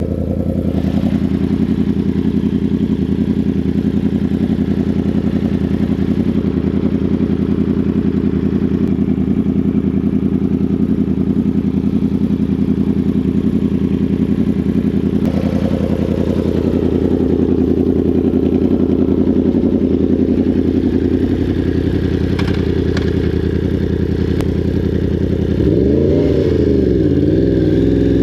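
Yamaha R1 inline-four sport bike engine idling steadily, then revved in quick throttle blips near the end.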